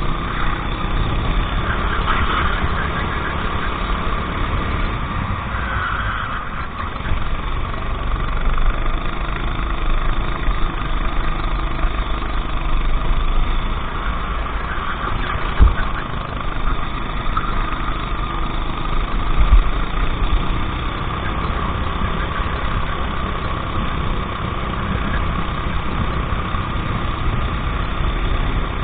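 Go-kart engine running steadily at low revs, near idle. Two short thumps break in, one about halfway through and one a few seconds later.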